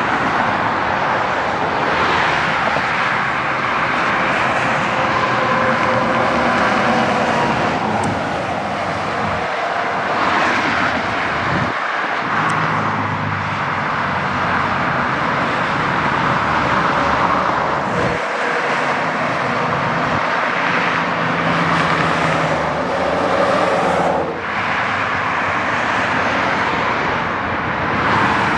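Highway traffic with heavy trucks driving past one after another: a continuous tyre roar with diesel engine hum that swells and fades as each vehicle goes by.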